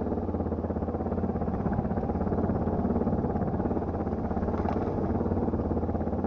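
Enduro/motocross motorcycle engine running at fairly steady revs, heard from on the bike as it is ridden, with a continuous low pulsing drone.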